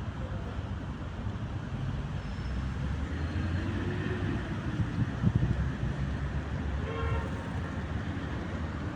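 City street traffic: a steady low rumble of passing vehicles, with one vehicle's hum swelling and fading midway, and a brief horn-like toot about seven seconds in.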